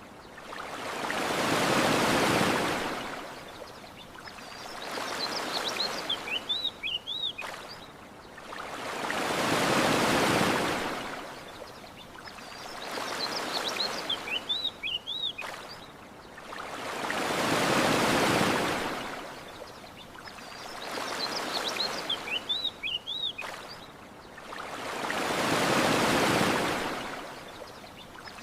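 Ocean waves washing onto a beach in slow, even swells, a large one about every eight seconds with a smaller one between. Small birds chirp in short, high bursts in the lulls between waves.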